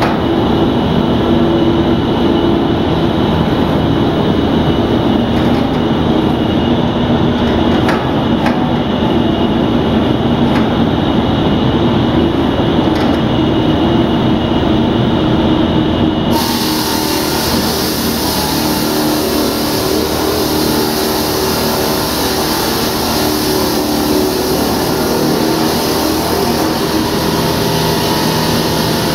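Heavy diamond concrete-cutting machinery running steadily with a loud engine drone. About sixteen seconds in, a harsher hiss comes in suddenly and stays.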